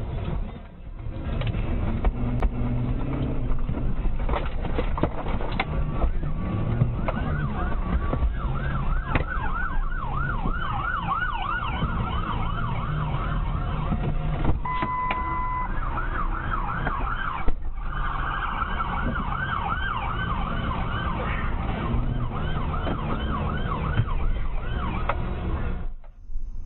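Emergency vehicle siren sounding in fast, repeated up-and-down sweeps over a steady rumble of road and engine noise. About halfway through there is a brief steady tone.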